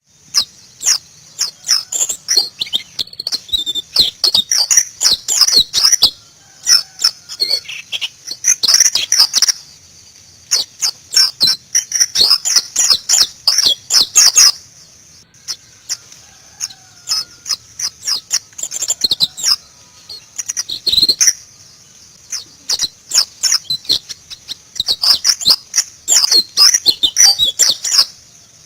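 White-eye (Zosterops, the pleci) singing: rapid, high twittering phrases that come in bursts of a few seconds, broken by short pauses.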